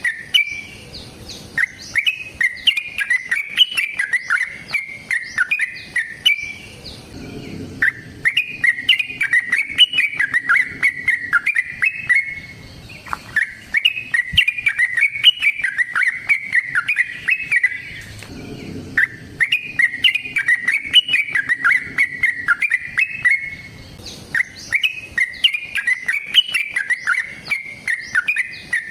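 Yellow-vented bulbul (trucukan) singing its long, rapid chattering fighting song, in bursts of several seconds at a time with short pauses between them.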